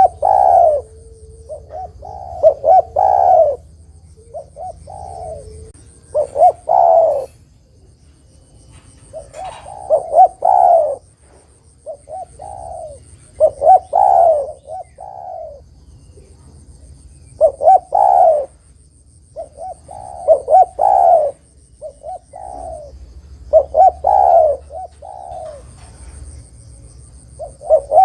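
Spotted dove (derkuku/tekukur) cooing: a short run of quick coo notes ending in a longer, louder coo, repeated about every three to four seconds. It is the dove's advertising call, used here as a lure to draw other spotted doves to answer.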